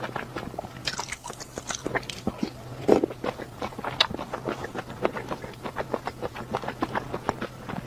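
Close-miked chewing of a mouthful of food: irregular wet mouth clicks and lip smacks several times a second, with one louder smack about three seconds in. A steady low hum runs underneath.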